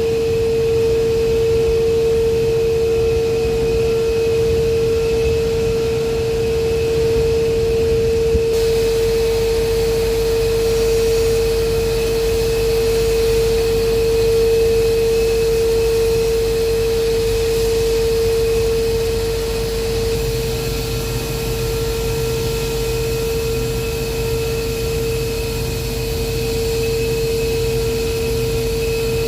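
Industrial machinery running with a steady hum, one high, unchanging whine above a low rumble; the background noise changes about eight seconds in.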